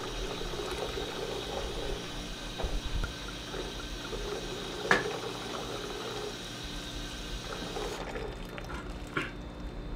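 Water running steadily from a tap into a sink, with a few sharp knocks, the loudest about five seconds in and another near the end.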